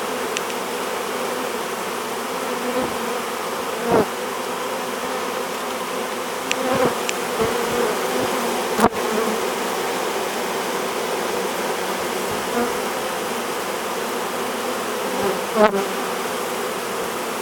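A honey bee swarm buzzing steadily, many bees fanning their wings at the hive entrance to spread scent that guides the swarm inside. The hum swells briefly about four seconds in and again near the end.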